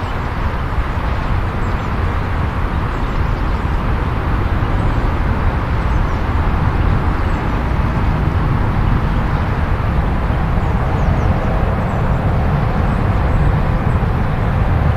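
Jet noise from a Boeing 777-300ER's GE90-115B turbofans as the airliner comes in to land: a steady deep rumble with a rushing hiss above it, slowly growing louder.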